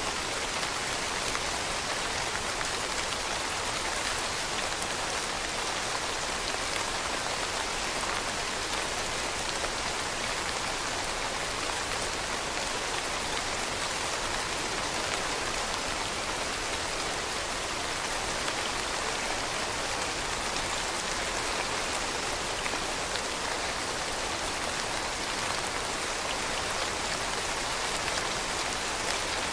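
Steady rain falling on leaves: a dense, even hiss of drops with faint individual patters.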